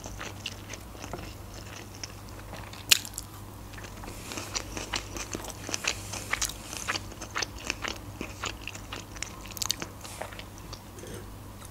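Close-miked chewing of sushi rolls: a single sharp click about three seconds in, then a quick, irregular run of small wet mouth clicks from about four seconds in, fading out near the end.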